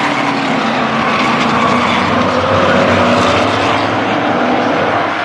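Race trucks' engines running around a short oval track, several engines heard at once, one rising in pitch about two and a half seconds in.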